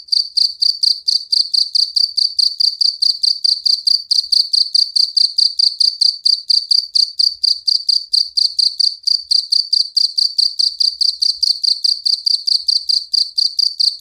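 A jangkrik jliteng (black field cricket) calling loudly: a high-pitched chirp repeated rapidly and evenly, several times a second without a break.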